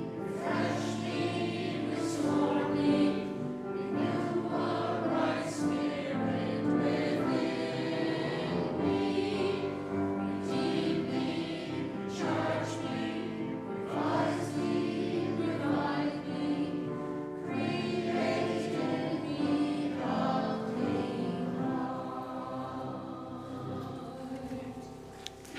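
Church choir singing a slow sung response in a church service, the sound fading away over the last few seconds.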